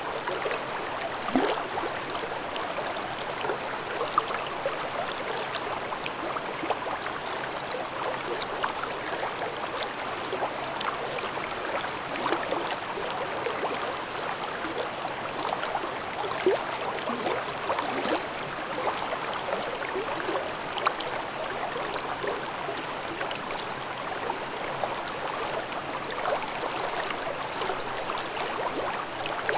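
A babbling mountain stream flowing over rocks: a steady rush of water with many small splashes and gurgles.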